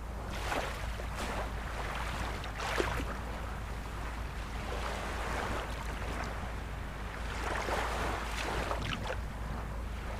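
Ocean surf washing continuously, with waves swelling and breaking about three seconds in and again near the end, over a steady low rumble.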